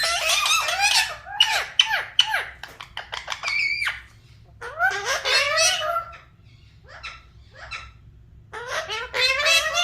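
Parrot chattering in quick, warbling bursts mixed with sharp clicks and squeaks, in three spells with a lull between about six and eight and a half seconds in.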